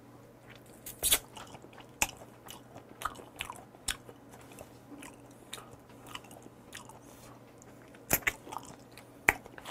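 A person chewing and biting raw shrimp: quiet mouth sounds broken by irregular sharp clicks, the strongest about a second in and again around eight seconds.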